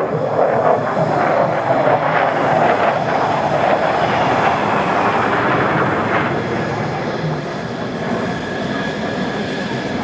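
Mitsubishi F-2A fighter jet flying past: a loud jet rush that is at its loudest for the first few seconds and then slowly fades, with a falling whine as it goes by.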